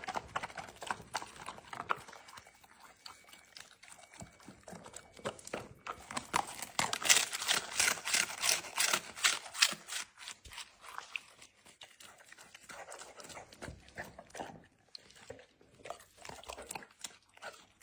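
A Labrador eating, its teeth crunching and its jaws clicking wetly in quick, irregular bites. The chewing grows loudest and densest partway through, then softens.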